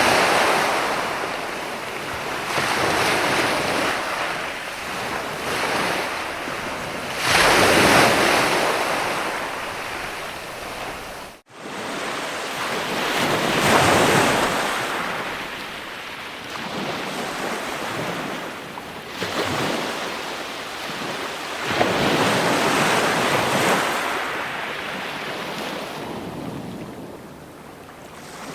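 Ocean waves breaking and washing in, swelling and falling back every few seconds. The sound cuts out abruptly for a moment about a third of the way through.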